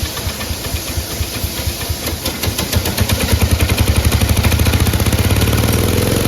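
Cub Cadet lawn tractor engine being started after carburetor trouble: it turns over unevenly at first, then about two seconds in it catches and runs, its firing beat quickening and getting louder until it runs steadily near the end.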